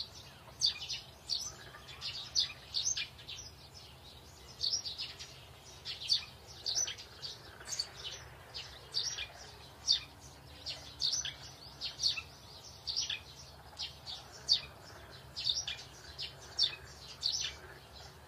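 Small birds chirping: short, high chirps repeated irregularly, about two a second, over a faint low background hum.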